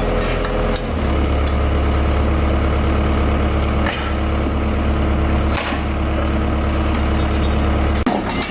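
Heavy engine running steadily; its note steps up about a second in, with two brief knocks partway through.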